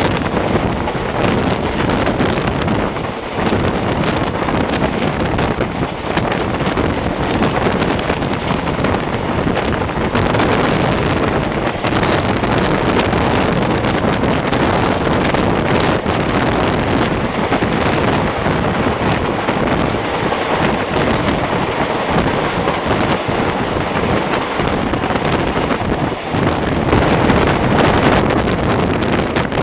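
A passenger train running at speed, heard from on board a coach: a steady, loud rush of running noise with wind buffeting the microphone.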